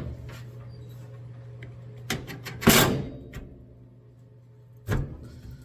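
Sharp knocks and a louder clunk of a 1968 Mustang's hood and factory hinges being shifted by hand while the hinge bolts are loose. A steady low hum runs underneath.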